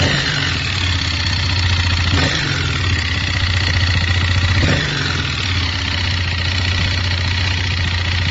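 164FMM single-cylinder four-stroke motorcycle engine idling, with the throttle blipped briefly about three times. It is knocking, which the owner traced to a faulty crankshaft after new cylinder, head and piston did not cure it.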